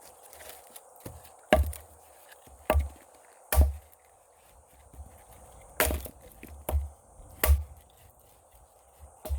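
Wood being chopped: seven sharp blade strikes into wood at uneven intervals, a pair close together about six and a half to seven and a half seconds in.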